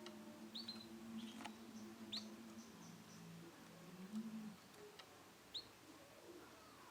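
Male canary giving a few short, high chirps a couple of seconds apart, over a faint low hum.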